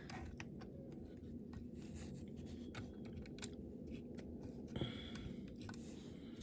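Light clicks and small scrapes of a diecast model car and its small parts being handled, over a faint steady low hum.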